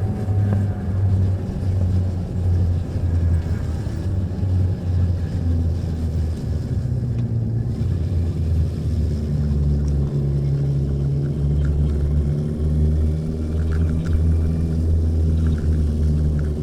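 A 1981 Yamaha XJ650 Maxim's air-cooled inline-four engine running as the motorcycle rides. Its note eases down over the first few seconds, then holds steady from about halfway.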